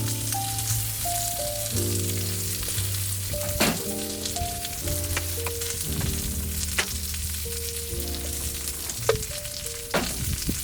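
Steak sizzling on an iron griddle plate, with a few sharp clicks, under background music of slow held chords with a steady bass.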